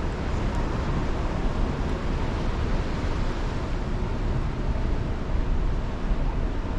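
Steady wind buffeting the microphone with a low, even rumble, as heard on the deck of a cruise ship under way.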